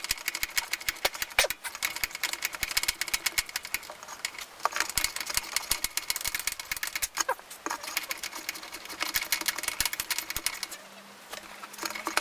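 Socket ratchet on an extension clicking rapidly as a long, stubborn bolt is backed out of a scooter's body cover, with a few louder knocks of the tool. The clicking eases off near the end.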